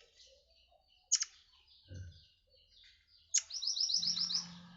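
Captive murai air calling. It gives a sharp high note about a second in, then near the end another sharp note followed by a quick run of about eight high chirps.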